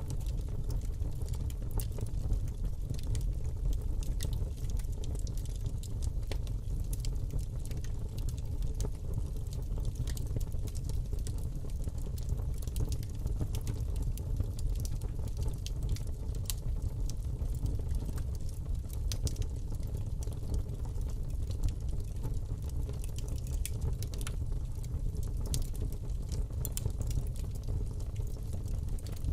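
Fire burning in a fireplace: a steady low rumble of flames with frequent small crackles and pops.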